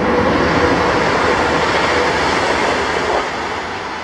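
A train passing close by at speed, a loud even rush of wheels on rail and wind that begins to die away about three seconds in.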